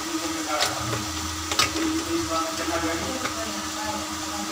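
Egg cubes sizzling as they fry in hot oil in a metal kadhai, with a few sharp clinks of a metal skimmer against the pan as the fried pieces are lifted out.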